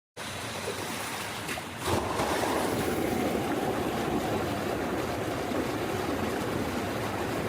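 Rushing floodwater: a steady wash of noise that turns louder and fuller about two seconds in.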